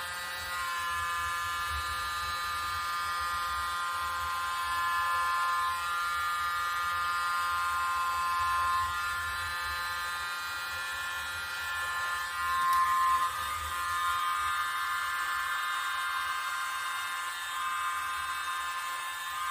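Small handheld electric blower motor whining steadily, its pitch and loudness shifting a little now and then, as used to push wet acrylic paint around a canvas.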